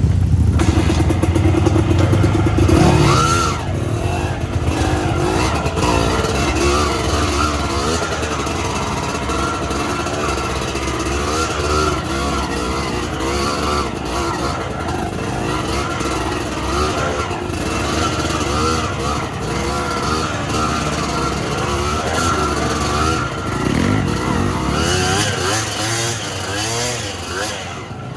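Suzuki TS125X two-stroke trail motorcycle engine being ridden off-road, its pitch rising and falling constantly as the throttle is worked, with a sharp drop off the throttle about three seconds in.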